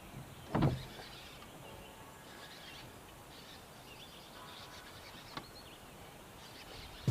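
Outdoor lake ambience with small birds chirping now and then, and one short thump about half a second in.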